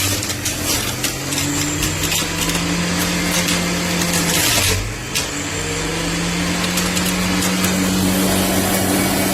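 JUILIST 400 W juice extractor's electric motor running, with irregular crackling over a steady whir. Its pitch climbs over the first few seconds, sags briefly about halfway through, then climbs back and holds.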